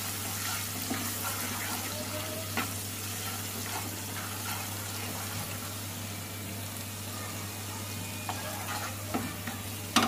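Ginger-garlic paste and whole spices sizzling steadily in hot oil in a nonstick pan as a wooden spatula stirs them, with a few light knocks of the spatula against the pan.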